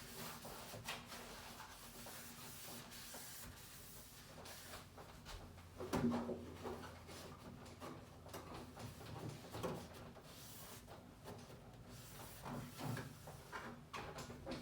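Intermittent light knocks, clatter and rubbing as refrigerator drawers and shelves are handled, the loudest knock about six seconds in, over a faint steady hum.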